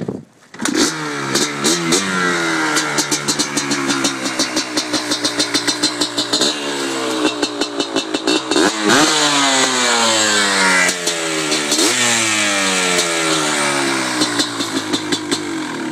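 Yamaha Blaster 200's single-cylinder two-stroke engine, breathing through an FMF Gold Series full exhaust, fires up under a second in. It then runs unevenly under repeated throttle blips, with sharp revs about nine and twelve seconds in and a crackly two-stroke popping throughout.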